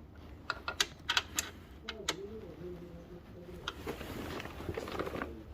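Metal parts and hand tools being handled: a quick run of sharp clicks and knocks in the first second and a half, another click about two seconds in, then a scraping rustle near the end.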